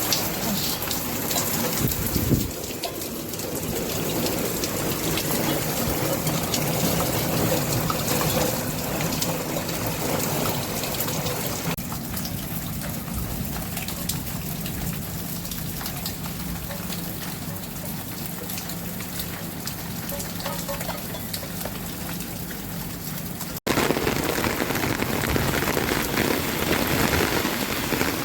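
Rain falling steadily, a continuous patter on surfaces. A sudden brief cut comes near the end, after which the rain sounds louder.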